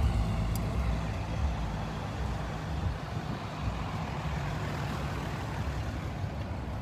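Cars and trucks driving slowly past in a line, a low engine rumble with road noise that eases off over the first few seconds and then holds steady.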